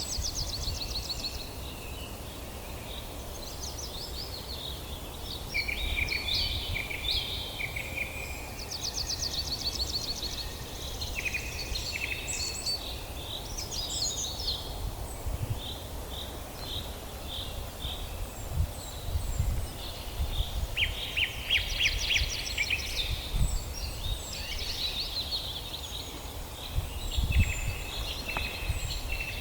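Several songbirds singing at once: overlapping trills, rapid series of chirps and short whistled notes. A low rumble runs underneath, with a few dull thumps in the second half.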